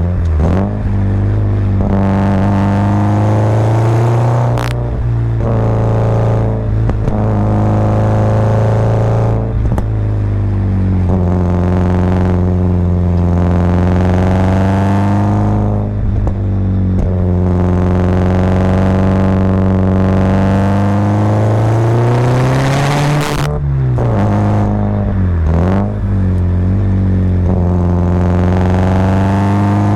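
Subaru Impreza WRX's turbocharged flat-four boxer engine pulling uphill through the gears, its revs rising and falling. A long rev climb just past the two-thirds mark ends in a sudden drop at a gear change, and there are brief dips in revs at other shifts.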